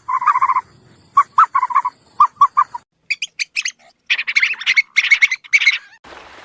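Birds calling in short repeated notes: a few quick runs of lower calls, then denser, higher chirping from about halfway through. Near the end it cuts to a steady rushing noise.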